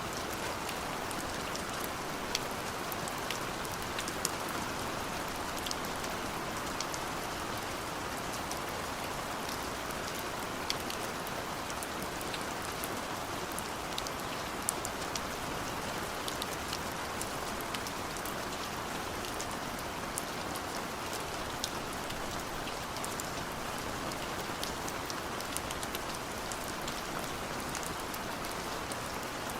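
Steady rain falling: an even hiss with scattered sharp ticks of individual drops striking a surface.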